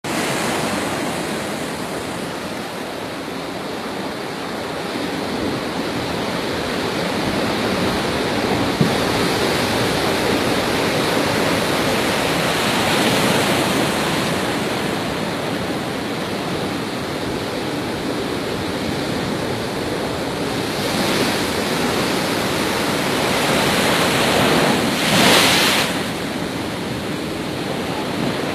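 Heavy rain falling steadily, a continuous rushing hiss that swells now and then and surges briefly louder near the end.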